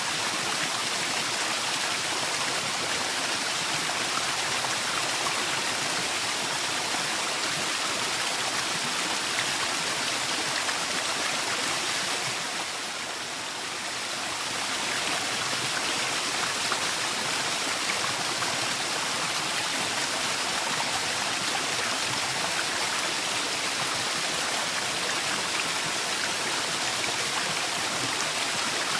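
Waterfall rushing steadily, a dense even roar of falling water, which turns briefly softer about halfway through before coming back up.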